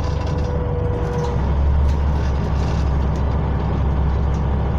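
Scania OmniCity bus heard from inside the passenger cabin, its engine and running gear giving a steady low rumble that grows heavier about a second in.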